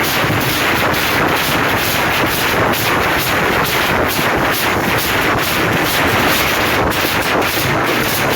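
Loud, dense, unbroken drumming from a procession's drum bands, a fast continuous pounding of many hits with no pause.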